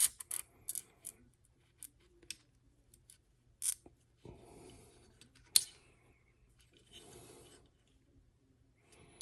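Sharp metallic clicks and taps of small AR-15 lower-receiver parts being handled and fitted: a quick cluster in the first second, then single loud clicks about 4 and 6 seconds in. Between them come a few short sniffs.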